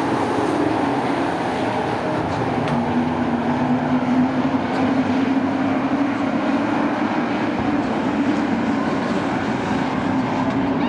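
A field of short-track race trucks running laps, their engines making a steady loud drone whose pitch wavers slightly as they circle the track.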